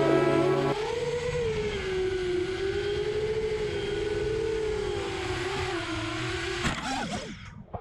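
FPV quadcopter's brushless motors and propellers whining, the pitch wavering up and down with the throttle, then dropping and cutting out near the end as the motors spool down. Background music ends about a second in.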